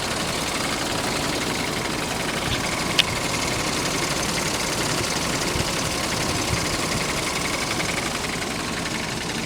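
2005 Hummer H2's 6.0-litre LQ4 Vortec V8 idling steadily, with one sharp click about three seconds in.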